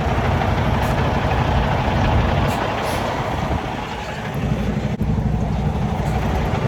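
Diesel engine of a training semi truck running steadily, a low rumble with a short click about five seconds in.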